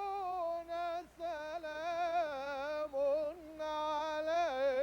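A single unaccompanied voice chanting Quranic recitation in Arabic: long held notes with wavering, ornamented turns, broken by short breaths about a second in and again near three seconds.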